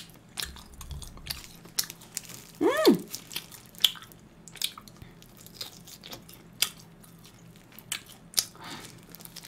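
Close-up chewing and biting on grilled pork ribs: wet mouth smacks, clicks and small crunches. About three seconds in, a short hummed "mmm" that rises and falls in pitch.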